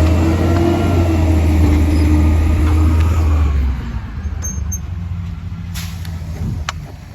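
Compost truck's engine running with a loud, steady deep hum, dropping away sharply about four seconds in and leaving a quieter background with a couple of faint clicks.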